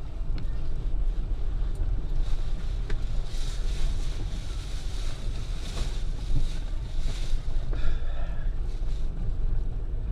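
Steady low rumble of a car's engine and cabin noise heard from inside the car, with a few faint clicks.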